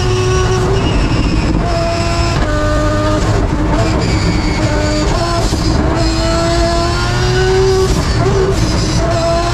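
Rotary-engined race car (Rob Dahm's four-rotor Mazda RX-7) accelerating hard uphill. The engine note climbs and drops with quick gear changes several times, eases off, then builds again under a long pull.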